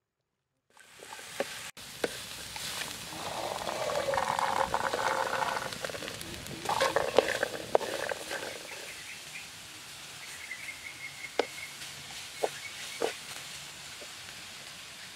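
Wood fire crackling and food sizzling as it is fried and stirred in a wok, with scattered sharp crackles.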